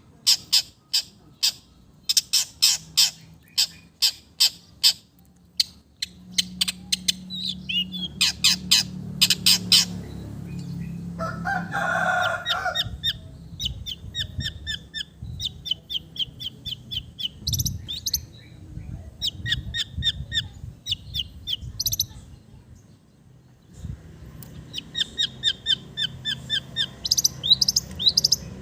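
Long-tailed shrike singing: rapid harsh chattering for the first ten seconds or so, then long runs of short, repeated high whistled notes, part of the mimicked calls that fill its song.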